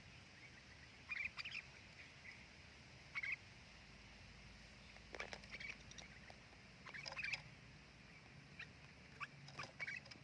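Sooty-headed bulbuls (kutilang) giving short, bright chirping calls in scattered bursts, a few notes at a time, every second or two.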